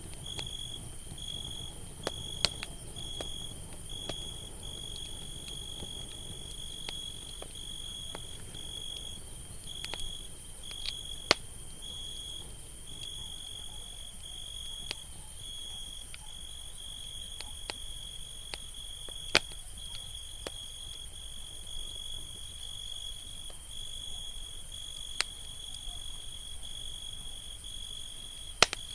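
Campfire burning with a low rumble and occasional sharp pops, about seven of them, over a steady high cricket trill broken by short gaps.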